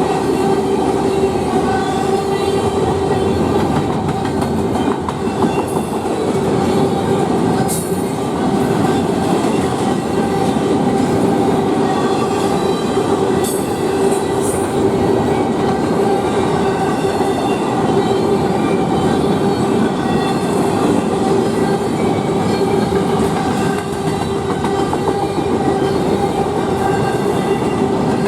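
Norfolk Southern freight train rolling past at a grade crossing: a steady loud rumble and clatter of wheels on rail, with a steady pitched ringing tone over it.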